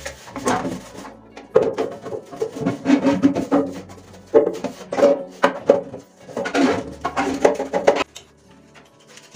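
Containers and kitchen items being handled and set down, in irregular bursts of clatter and knocks, over soft background music; the handling stops about eight seconds in.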